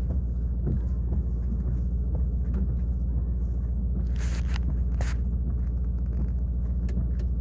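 Mercedes E63 AMG 4MATIC (W213) 4.0-litre twin-turbo V8 idling steadily through an iPE valved exhaust, a deep even drone with no revving. A short hiss and a click come about four and five seconds in.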